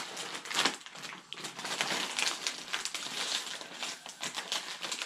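Steady rain, a dense crackling patter with many fine ticks.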